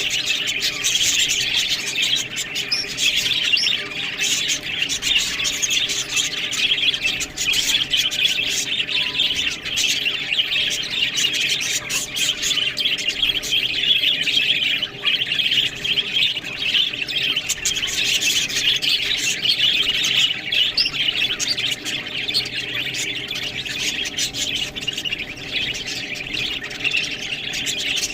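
A group of budgerigars chattering and chirping nonstop, many quick overlapping warbles and chirps.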